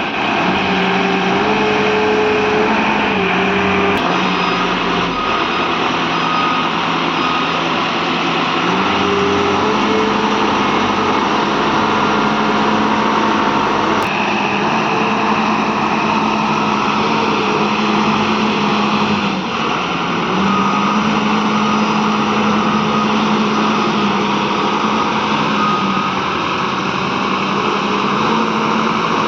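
Diesel engine of an Ajax Argo 4300 self-loading concrete mixer running continuously, its pitch stepping up and down several times as the engine speed changes.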